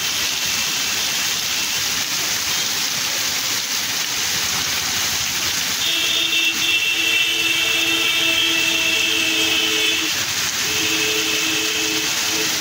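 Heavy rain pouring steadily. About six seconds in, a steady two-note tone starts and holds for about four seconds, then sounds again for about two seconds near the end.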